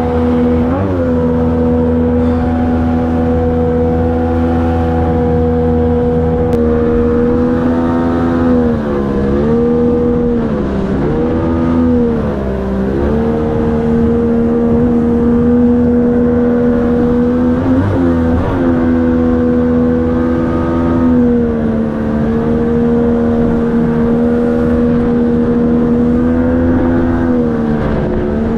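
Outboard jet motor on an inflatable jet boat running hard at speed, a steady pitched engine drone whose revs dip briefly and climb back several times.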